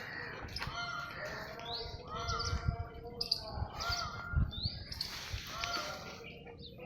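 Small birds chirping repeatedly, with irregular low thumps underneath.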